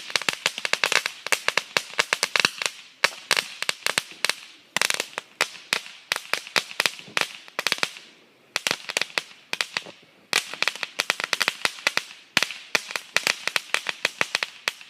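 A crackling firework giving off rapid, dense crackles and pops in clusters, with brief lulls about three, eight and ten seconds in.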